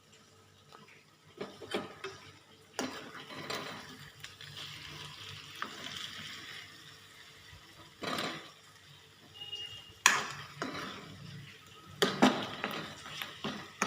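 Chicken curry sizzling in a pan as a spatula stirs and scrapes through it, with several sharp clanks of the utensil against the pan, the loudest about ten seconds in.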